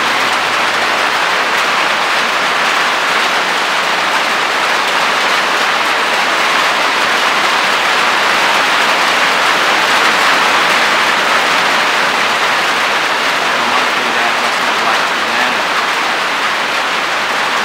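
Loud, steady rain falling on a roof, an even hiss with no breaks.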